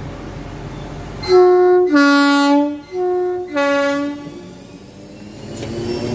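A train's two-tone horn sounded twice, each time a higher note followed by a lower one, over the low rumble of a train.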